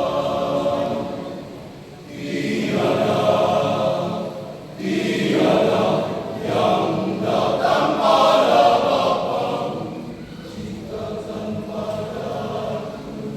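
Men's choir singing a hymn in sustained phrases. It swells loudest about halfway through, then sings more softly near the end.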